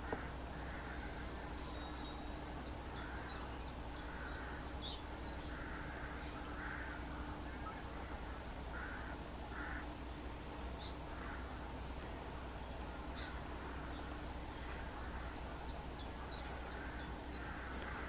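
Wild birds calling: a run of harsh, repeated caw-like calls, with bursts of high twittering from small birds about two seconds in and again near the end.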